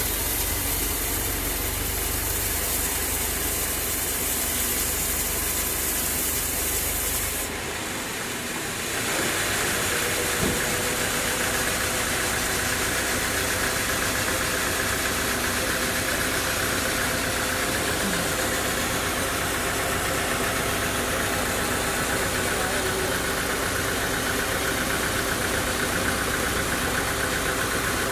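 Sawmill machinery running steadily on its engine. About seven seconds in, the high hiss and low rumble drop away. A second or so later a different steady running sound takes over.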